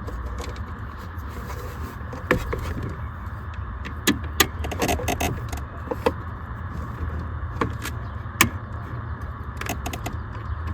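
Scattered light clicks, knocks and scrapes of a CB radio and its metal mounting bracket being handled and held up under a car's dashboard, over a steady low background hum.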